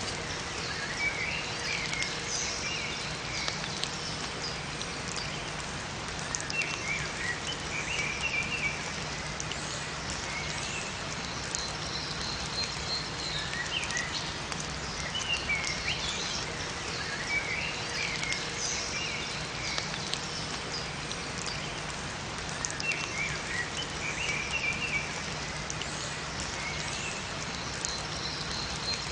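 Steady rain falling in a forest, with small songbirds chirping in short phrases every few seconds.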